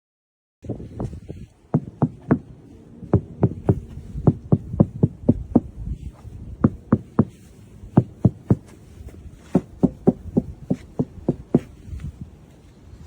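Knuckles rapping repeatedly on a car's sheet-metal body panel to test how well its sound deadening damps it: short, sharp knocks at about two to three a second over a low rumble.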